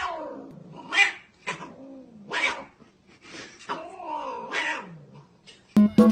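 A cat yowling: about five drawn-out calls, several sliding down in pitch. Plucked-string music starts near the end.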